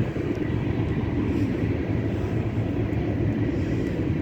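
CP manifest freight train's cars rolling past on the rails: a steady low rumble of wheels.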